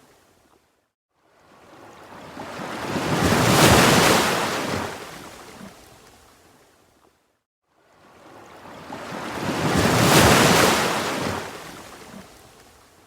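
Ocean waves surging in twice: each one swells to a loud peak of rushing surf, then washes away to almost nothing before the next one builds.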